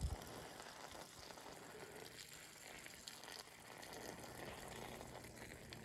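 A man urinating outdoors: a faint, steady trickle of liquid.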